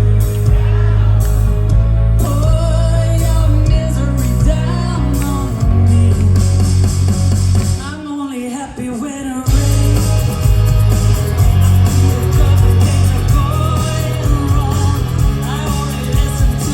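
Live rock band playing, with guitars, bass and drums under a female lead vocal. About halfway through, the bass and drums drop out for a second or so, leaving the voice nearly alone before the full band comes back in.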